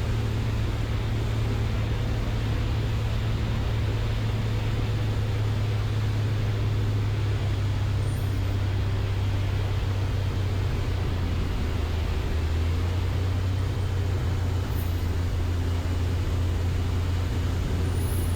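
Light airplane's piston engine and propeller droning steadily in the cockpit on final approach with full flaps; the engine note drops a little lower about ten seconds in as power comes back for landing.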